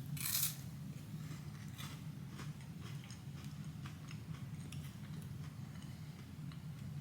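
A person chewing a crispy wafer bar: a louder crunch just after the start, then faint scattered crunching clicks, over a low steady hum.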